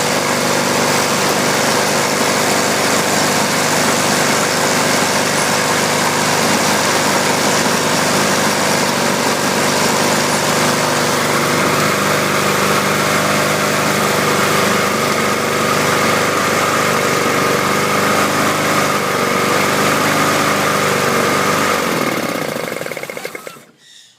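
Honda Harmony HRT216 walk-behind mower's single-cylinder engine running steadily, then shut off about 22 seconds in, its note falling as it winds down to a stop.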